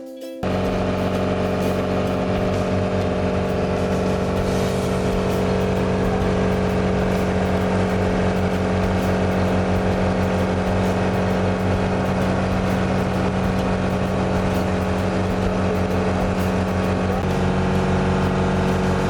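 A motor engine running steadily at an even speed, starting abruptly about half a second in, with a slight change in its note near the end.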